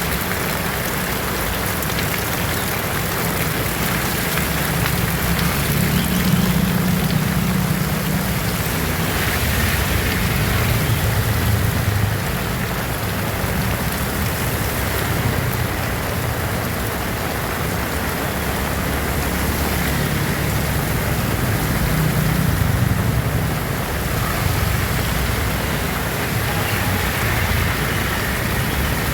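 Heavy rain falling steadily, with a low rumble underneath that swells and fades a few times.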